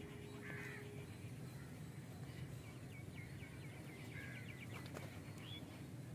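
Faint bird calls over a steady low background hum: a short call about half a second in, a quick run of rapid repeated chirps about halfway through, and another short call near the end.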